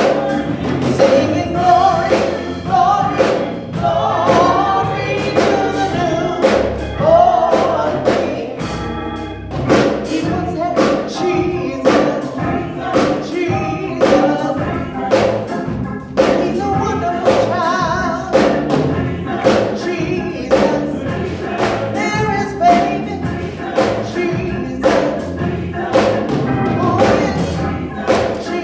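Gospel choir singing with band accompaniment and a steady drum beat.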